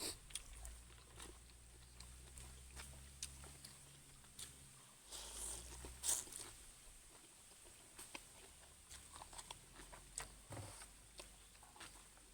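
A person eating noodle soup with fresh vegetables, chewing and crunching. Scattered small clicks run throughout, and there is a brief rushing sound about five to six seconds in.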